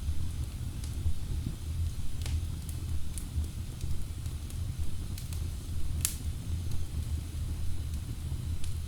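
Wood fire burning in a fireplace: a steady low rumble of flames with scattered sharp crackles and pops from the logs, the loudest pop about six seconds in.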